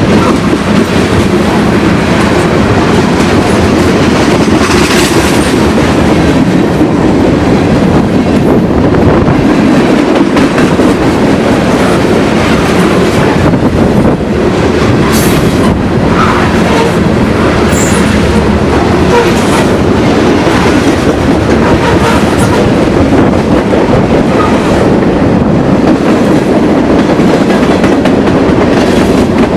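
A train rolling past close by: a loud, steady rumble of wheels on the rails with a clickety-clack over the rail joints.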